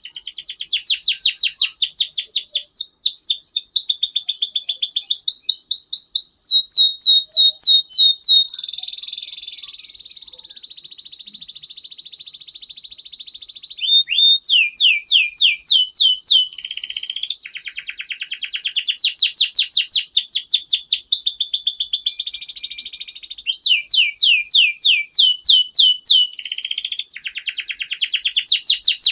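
Domestic canary singing a long song of fast trills, each a quick run of repeated rising notes, with a quieter held whistle of about five seconds about a third of the way in.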